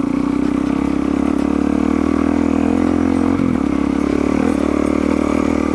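Suzuki DR-Z400's single-cylinder four-stroke engine running steadily under way, its pitch climbing slightly and then dipping briefly about three and a half seconds in before holding again.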